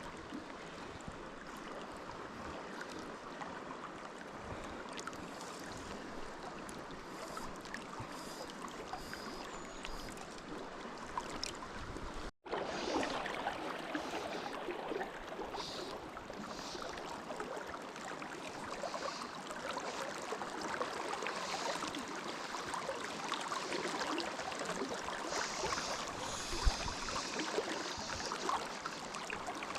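Steady rush of flowing river water. It cuts out for an instant about twelve seconds in and comes back slightly louder.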